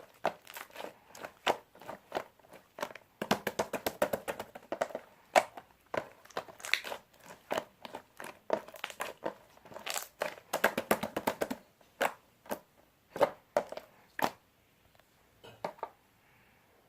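Crinkling and crackling handling noise: quick clusters of sharp clicks and crunches, thinning out near the end.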